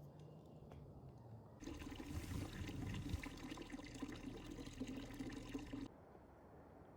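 Water running for about four seconds, starting and stopping abruptly.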